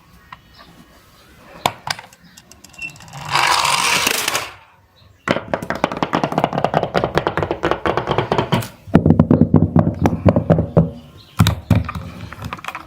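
A brief rushing hiss, then three bursts of fast clicking and rattling, the middle one louder with a low hum beneath.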